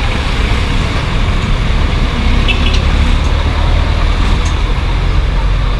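Steady road traffic noise: a continuous low rumble of passing vehicles, with a few faint short clicks about halfway through.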